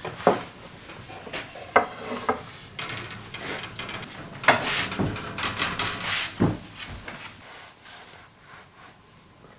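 Noodle dough being rolled out with a rolling pin on a wooden board: rubbing and rolling with several sharp knocks of wood on wood, dying away after about seven seconds.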